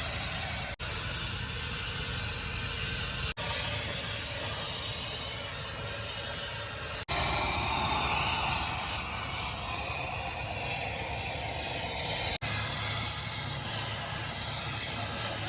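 Steady loud hiss of workshop machinery or cutting work with a strong high-pitched edge, broken by brief dropouts about every three to five seconds.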